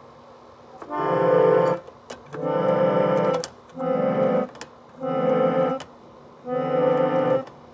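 Keyboard music: five held chords of about a second each, separated by short pauses.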